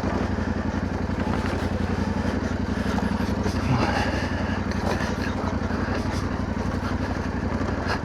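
Yamaha Ténéré 700's parallel-twin engine running steadily at low revs with an even firing pulse. A short curved squeak-like tone sounds briefly near the middle.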